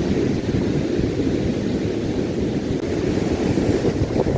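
Strong wind buffeting the microphone: a loud, dense low rumble that flutters without a break.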